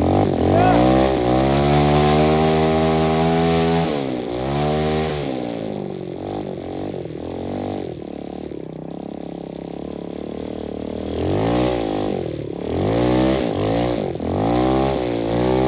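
125cc dirt bike engine revving up hard and holding high revs for a few seconds, then dropping back and running lower. Near the end it gives a series of quick rev blips.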